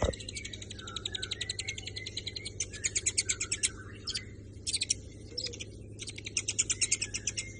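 Long-tailed shrike chattering in rapid runs of high, fast-repeated notes, broken by short pauses about four and six seconds in, over a steady low hum.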